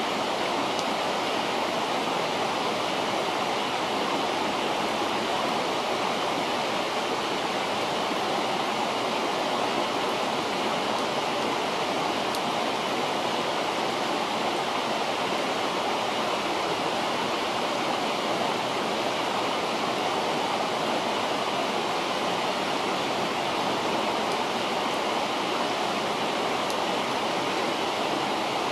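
River water rushing steadily, with a few faint clicks now and then.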